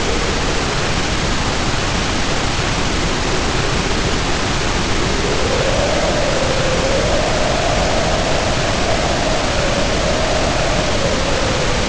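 Heavy rain pouring down steadily with wind howling over it; the howl swells in about five seconds in and wavers up and down in pitch.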